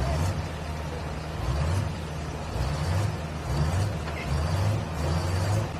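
Perkins V8 engine of a pro stock pulling tractor running low and uneven, its sound swelling and fading about once a second.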